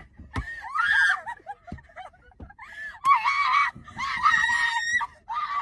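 A woman screaming in fright, several long high-pitched screams one after another.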